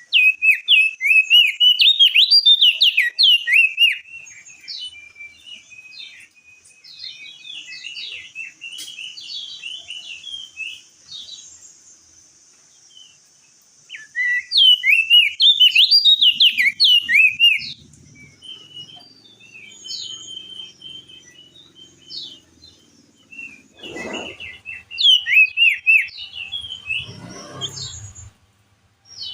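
Crested white-eye (opior jambul) singing: three loud bursts of fast, chattering, up-and-down song, with quieter twittering between them. Two dull low knocks come near the end.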